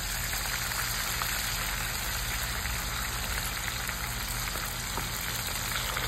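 Marinated chicken pieces deep-frying in hot oil in a pan, a steady sizzle with scattered small crackles.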